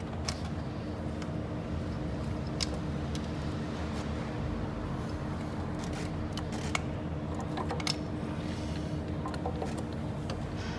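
Steady mechanical hum with a constant tone, and a scattering of short, light clicks over it.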